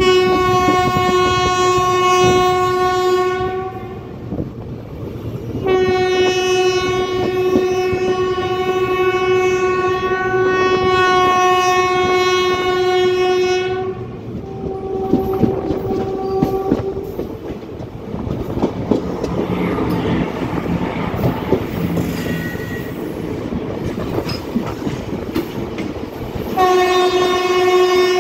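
Train horn sounding in long held blasts of one steady note: one of about four seconds, a longer one of about eight seconds, a weaker short one, then another starting near the end. Under it runs the rumble and clickety-clack of train wheels on rail joints, heard from aboard a moving train, with a goods train of covered wagons passing close alongside near the end.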